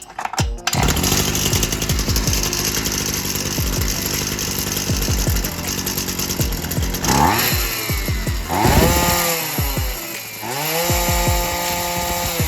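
Oleo-Mac Sparta 37 brushcutter's small two-stroke engine running. In the second half it is revved up and down a few times, then held at high revs near the end, with background music and its beat underneath.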